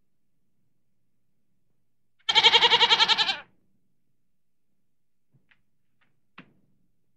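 A goat bleats once, about two seconds in: a single quavering call lasting about a second.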